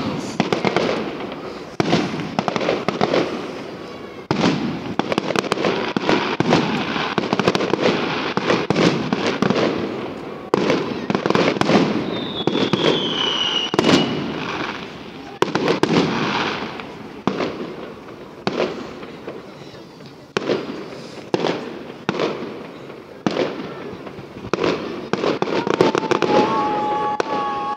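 Aerial fireworks shells bursting one after another in a dense run of bangs, with crackling after the bursts. A falling whistle sounds about halfway through, and steady tones come in near the end.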